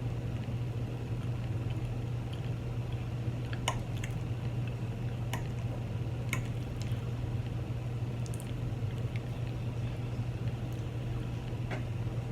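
A person chewing and eating chili cheese fries, with a few sharp clicks of mouth or utensil sounds. A steady low hum runs underneath and is the loudest thing.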